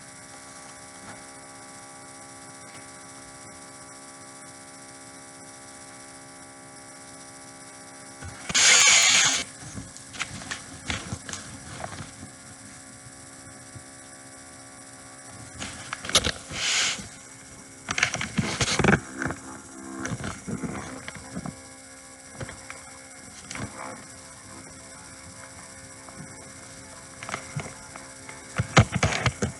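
A steady hum made of several held tones, broken by a few loud bursts of noise; the loudest burst comes about nine seconds in.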